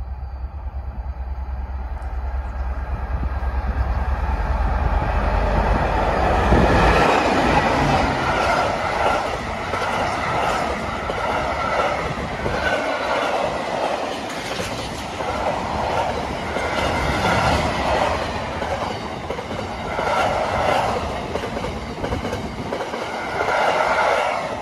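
Diesel-hauled freight train of bogie tank wagons passing close by. The locomotive's low engine rumble builds and passes about seven seconds in, then the wagons' wheels clatter over the rail joints in repeating groups every two to three seconds as each bogie goes by.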